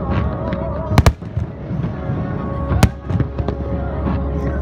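Fireworks display: sharp shell bursts, a close double bang about a second in and another single bang near three seconds, with smaller pops between, over music playing throughout.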